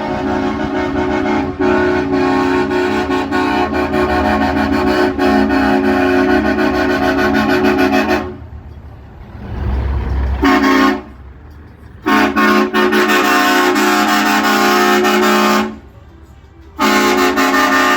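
Truck air horns sounding several tones together in long blasts: one of about eight seconds, a short toot, another of nearly four seconds, and a last blast near the end.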